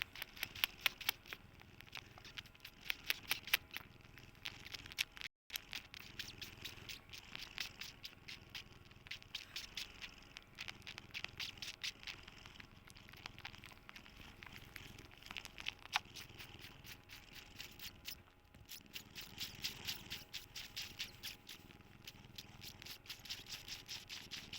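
A cat making a close run of soft clicks and crackles, several a second with short pauses, over a faint steady hum.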